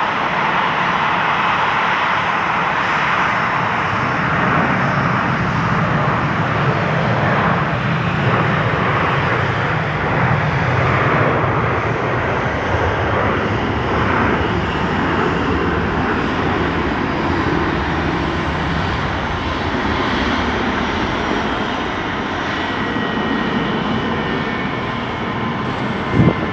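Airliner engines running loud and steady, a dense rushing roar that eases slightly in the last few seconds.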